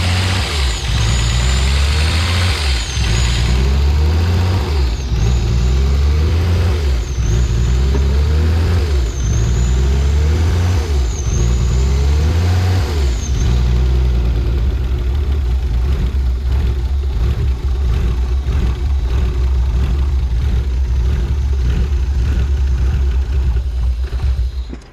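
BMW E36 engine running roughly, the sound rising and falling about every two seconds for the first half and then steadier, before it dies right at the end. The owner suspects a vacuum leak around the oil separator, and unplugging the oil separator stalls the engine.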